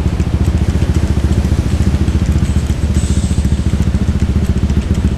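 Motorcycle engine running with a steady, rapid low putter.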